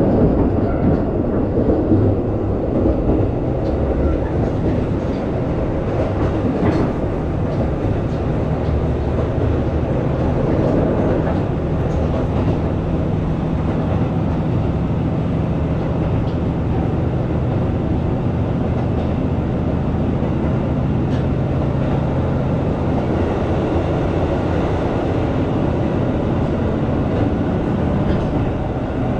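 A Shimabara Railway diesel railcar heard from inside while it runs along the line. It gives a steady low engine drone and running noise, with the wheels clicking over rail joints a few times.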